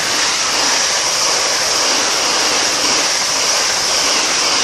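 Class 365 electric multiple unit passing close at speed: a loud, steady rush of wheel and air noise with a strong high hiss.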